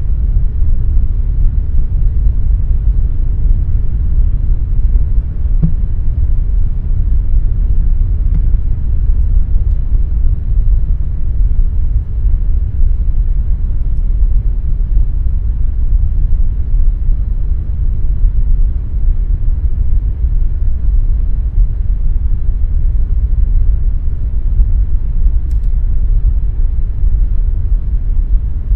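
Air conditioner running steadily: a deep, even rumble with a faint constant hum above it.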